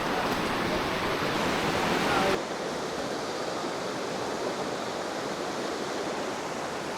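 Steady rush of falling water in a river gorge, which drops suddenly to a softer rush about two seconds in.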